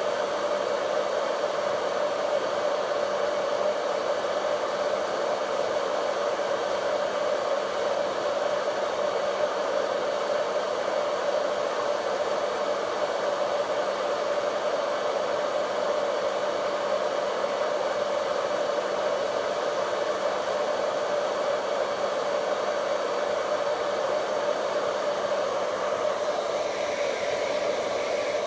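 Vidal Sassoon Hot Tools hair dryer running steadily: an even rush of air over a steady motor whine. The sound shifts slightly in its upper range near the end.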